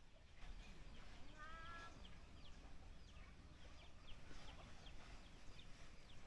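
Chickens clucking faintly, with one short call about a second and a half in and many brief high peeps throughout.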